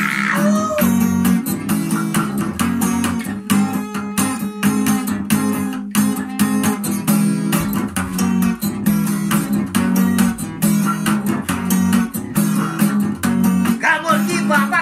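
Acoustic guitar played with steady, rhythmic strumming in an instrumental passage. A voice comes back in near the end.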